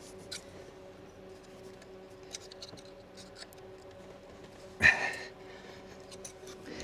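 Faint clicks and scrapes of hand tools and parts being handled under a steady background hum, with one short, louder knock about five seconds in.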